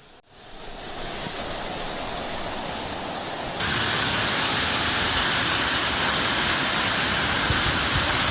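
Steady rushing noise of a heavy downpour with running water. It fades in, then jumps suddenly louder and brighter about three and a half seconds in, where one clip gives way to another.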